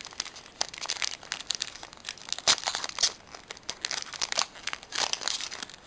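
Foil booster-pack wrapper crinkling and rustling in the hands as a trading card pack is handled and opened, an irregular crackle of many small sharp crinkles.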